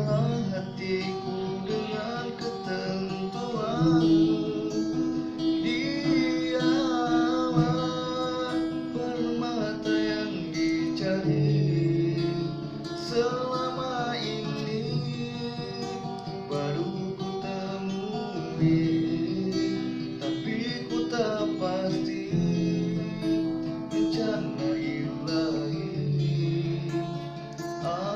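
Acoustic guitar strummed and picked, with a singing voice carrying a wavering melody over it at several points.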